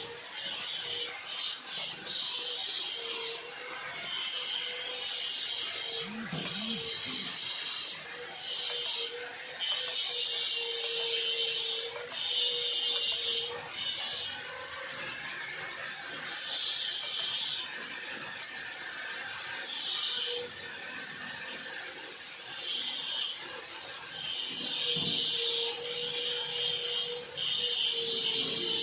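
Metalworking power tool running in a fabrication shop: a steady high whine that wavers slightly in pitch, with bursts of hiss that start and stop every second or two.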